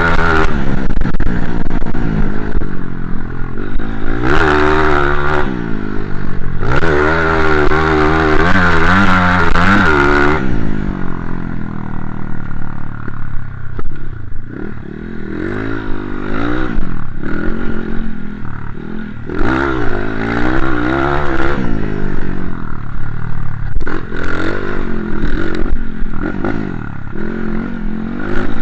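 Motocross dirt bike engine revving up and easing off again and again as it is ridden, its pitch climbing and dropping with the throttle; loudest in the first ten seconds.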